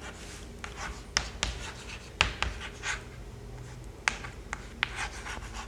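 Handwriting: short scratchy strokes and light taps of a pen or marker on a writing surface, coming irregularly, several a second at times.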